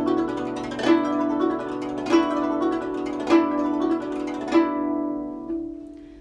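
Guzheng played solo: a strong accented pluck about every second with softer notes between, the left hand pressing the string to bend the pitch into each note. The notes ring on and fade away near the end.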